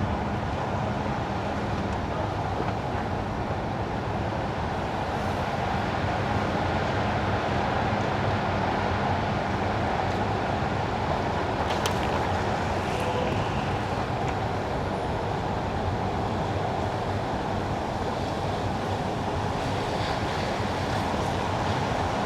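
Steady tyre and road noise of a car driving on wet winter asphalt, with a low rumble underneath.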